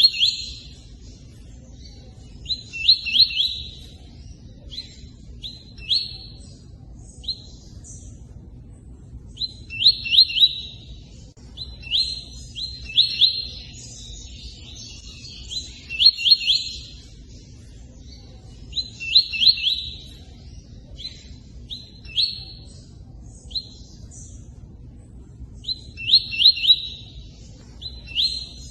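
Tui-tui bird singing in short bursts of quick, sharp, high chirps, a burst every two to three seconds with pauses between, over a steady hiss of running water.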